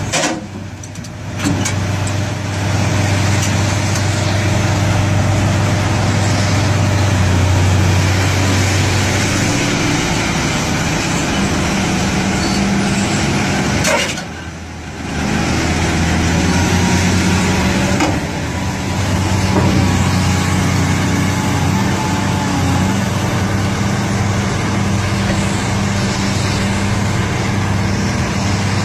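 Heavy diesel engine of a Cat excavator running steadily under load, a continuous low drone that dips briefly twice, about a second in and around the middle.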